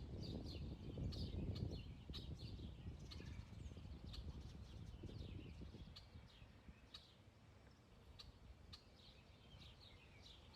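Songbirds chirping: many short, high calls, often falling in pitch, scattered throughout. Under them a faint low rumble fades away about six seconds in.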